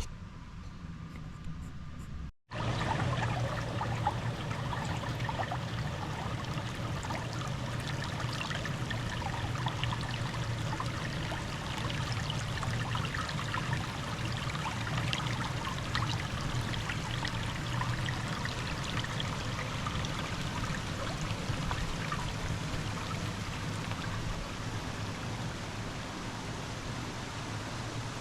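Running water trickling and splashing steadily, with many small rapid splashes, that starts abruptly about two seconds in.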